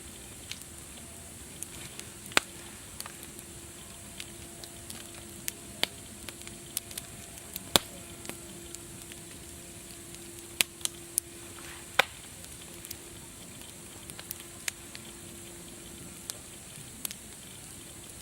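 Wood fire crackling: irregular sharp pops and snaps, a few much louder than the rest, over a steady hiss. A faint low hum comes and goes underneath.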